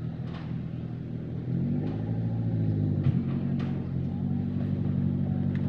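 An engine running steadily, its pitch stepping up about a second and a half in, with a few light knocks.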